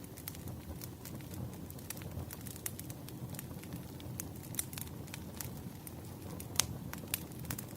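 Wood fire burning: a steady low rush with frequent irregular crackles and pops from the burning logs, one sharper pop near the end.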